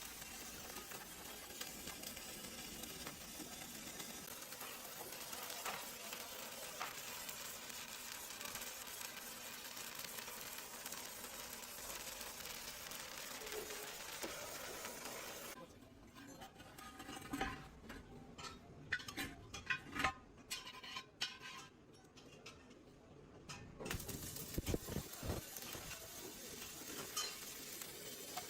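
Arc welding on a steel truck rim: a steady sizzling crackle. It is broken a little past halfway by several seconds of separate sharp metallic clicks and taps, then resumes with a few low thumps.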